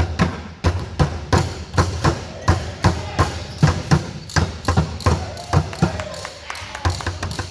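A basketball being dribbled on a hard gym floor, bouncing about three times a second, with voices in the background.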